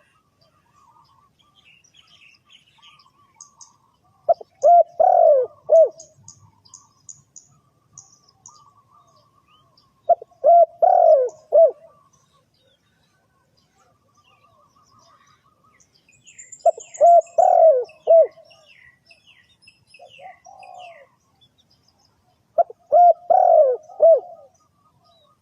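Spotted dove (tekukur) cooing: four phrases of several short coos each, repeated about every six seconds, with one shorter coo between the last two. Small birds chirp faintly in the background.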